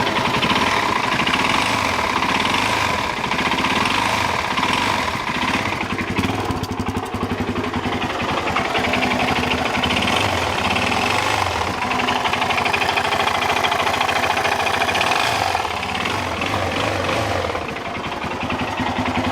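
Suzuki DR-Z400's single-cylinder four-stroke engine idling while it warms up, with a rapid knock from inside the motor. The knock comes from a worn connecting rod with excessive play.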